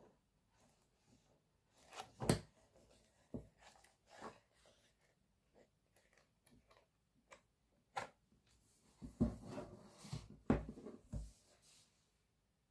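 Items of a boxed merchandise set being handled: scattered light knocks, taps and rubbing, with a busier stretch of bumping and rustling about three quarters of the way through.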